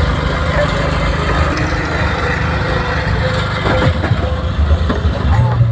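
Vehicle engine running steadily amid general street noise; near the end a steady deep low tone comes in.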